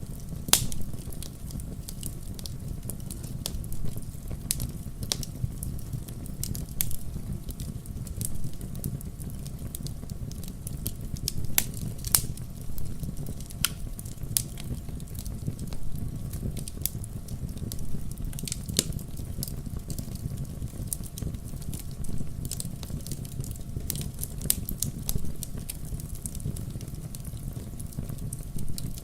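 Wood fire burning in a fireplace, crackling and popping at irregular intervals over a steady low rumble of the flames, with a few sharper pops.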